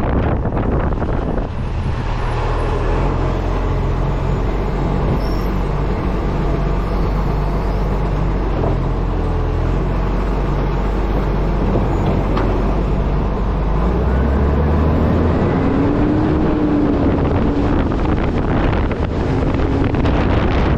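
Acco refuse truck's diesel engine running steadily, with road and wind noise on a camera mounted on the front of the truck. A faint tone rises about two thirds of the way in and wavers to the end.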